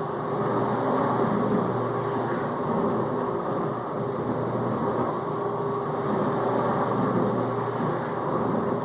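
Whirlpool dishwasher in its final-rinse circulation: the circulation pump running with a steady hum while the spray arms throw water against the dishes and tub.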